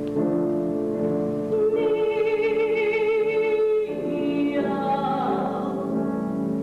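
Operatic female singing in a duet with piano accompaniment: long held notes with vibrato, moving to a new, higher-lying note about four seconds in.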